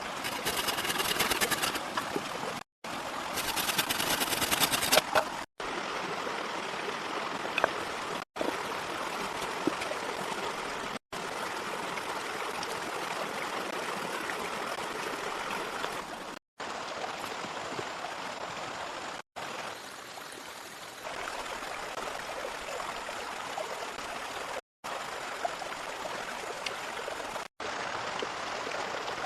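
Steady rushing water noise of rainforest rain or running water, heard in short clips cut every few seconds. Over the first five seconds a rapid run of clicks or scraping sits on top of it.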